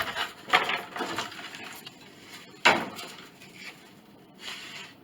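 Old wooden piano soundboard panels knocking and clattering against each other as they are shifted and pulled from a stacked pile, with two sharp knocks, one about half a second in and one near the three-second mark.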